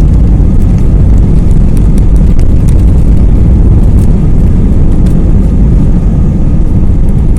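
Airplane taking off: a loud, steady low rumble of engines at takeoff power.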